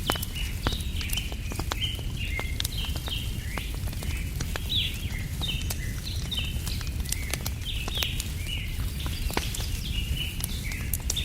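Wood campfire crackling with sharp pops over a steady low rumble, with birds chirping in short high calls several times a second.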